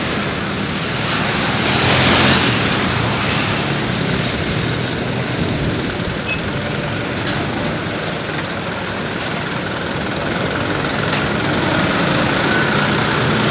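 Steady engine noise: a low hum like an engine idling under a wider rush that swells briefly about two seconds in.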